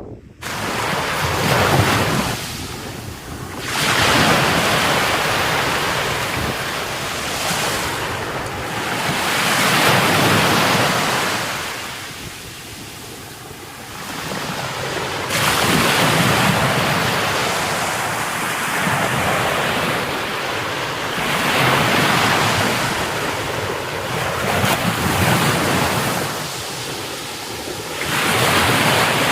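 Sea surf breaking on the shore, swelling and fading every few seconds, with wind buffeting the microphone.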